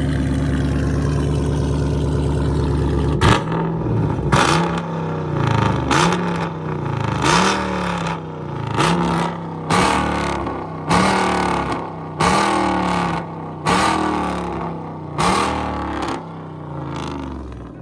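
Catless, straight-piped SRT Jeep's Hemi V8 idling, then blipped about ten times in quick succession from about three seconds in, roughly one rev every second and a half, each with a sharp crack as it opens and its pitch rising and falling back. Very loud.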